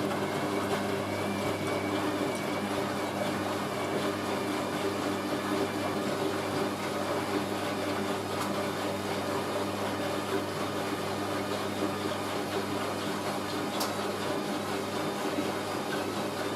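Hoover A3060 Electronic 1100 washing machine in its final spin, the drum spinning at high speed with a steady motor hum and rushing whir.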